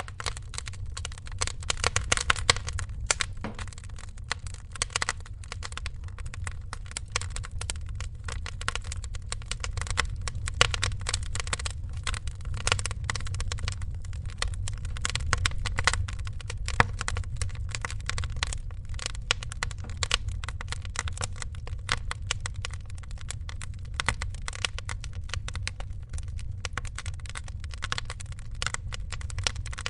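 Wood fire crackling, with many small irregular snaps and pops over a steady low-pitched rush of the flames.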